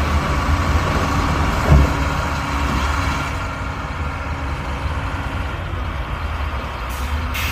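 Heavy diesel engine of earthmoving machinery running with a steady low rumble, a single thump about two seconds in, and a short hiss near the end.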